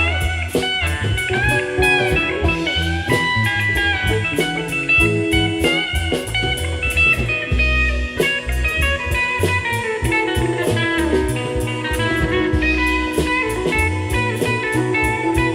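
Live rock band playing an instrumental jam: an electric guitar lead with bending notes over bass, keyboards and a steady drum-kit beat.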